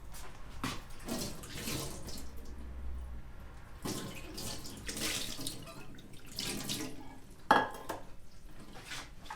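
Water pouring and splashing in several short, uneven spells, with one sharp knock about three-quarters of the way through.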